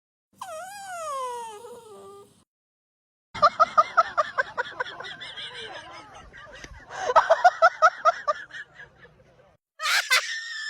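A dog making laugh-like vocal sounds: a short gliding whine, then two runs of quick rhythmic pulsed yips at about six a second, and a high held whine near the end.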